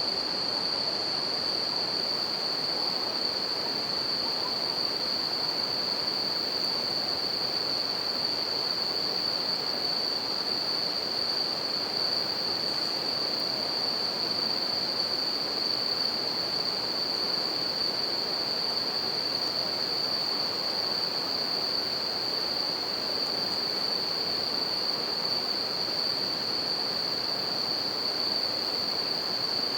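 A river flowing in a steady, even rush, with a chorus of bell crickets (suzumushi) singing in a continuous high ringing tone over it.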